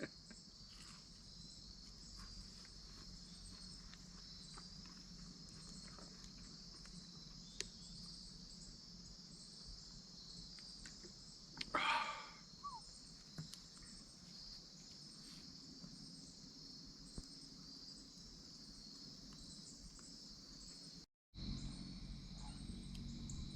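Crickets chirping in a steady, high-pitched chorus. About halfway through, a short human vocal sound is heard, like a murmur while eating.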